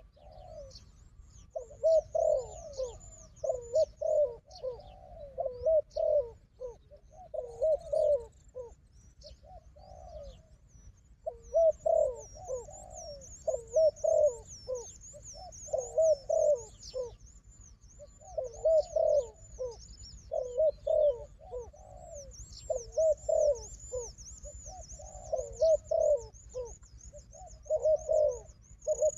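Spotted doves cooing in repeated phrases, one every second or two with short gaps. Above them runs a high, thin series of quick chirps from another small bird, louder in the second half.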